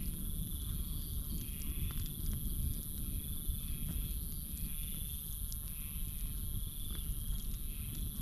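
Campfire crackling with scattered sharp pops, under a steady high-pitched insect chorus and a pulsing trill that repeats about once a second. A low rumble runs underneath.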